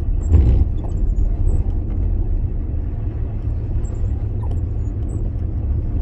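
Steady low rumble of a moving car heard from inside the cabin: road and engine noise. There is a brief louder bump about half a second in.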